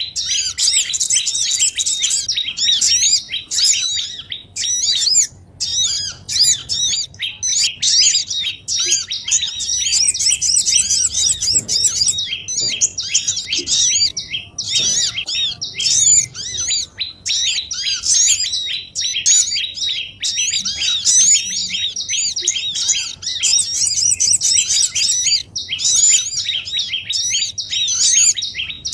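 Small birds twittering in a dense, noisy chorus of rapid, overlapping high chirps with only brief pauses: a bird-lure recording for small birds such as tailorbirds.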